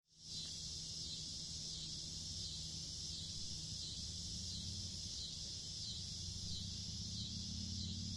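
A steady high buzzing chorus of insects over a low, steady hum.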